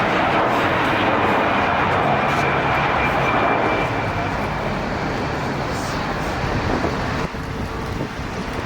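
Jet airliner engines running loud with a faint high whine, easing off about four seconds in and dropping further near the end.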